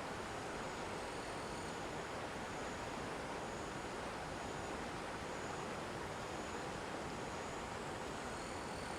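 Steady outdoor rushing noise, with faint short high chirps about once a second.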